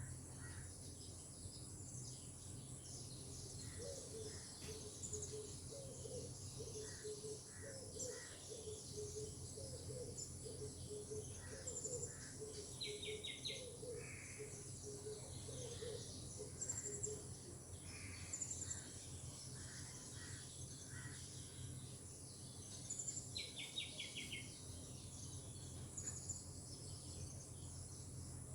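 Tropical forest ambience: a steady high-pitched insect drone under many birds calling. A bird repeats a low note over and over through the first half, other birds give short chirps, and there are two quick rattling trills, one about halfway through and one near the end.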